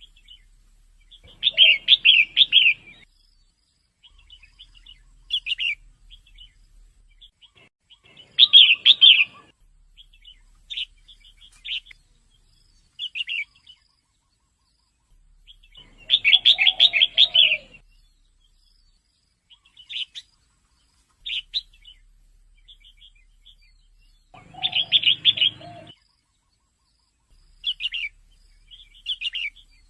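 Female red-whiskered bulbul calling: four louder bursts of quick, rapid chirps spaced several seconds apart, with short single notes in between.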